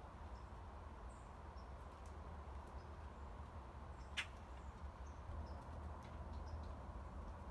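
Faint outdoor ambience with a low steady rumble and small, high, brief bird chirps scattered throughout. There is one sharp click about four seconds in.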